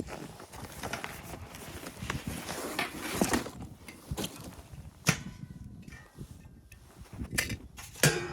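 Irregular rustling and crunching with scattered knocks, and a sharp knock about five seconds in and another near the end.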